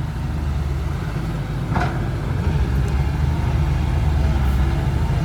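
Heavy diesel engine running steadily with a low, even beat, getting slightly louder about two seconds in.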